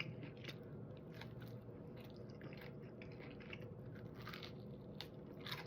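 A person chewing food close to the microphone, with soft, irregular mouth clicks and bites.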